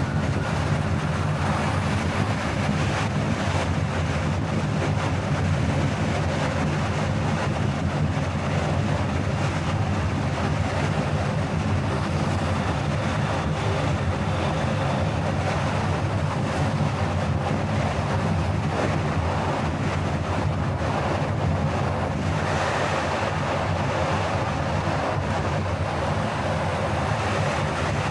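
Car on the move: steady road, tyre and engine noise with a constant low hum and no change in pace.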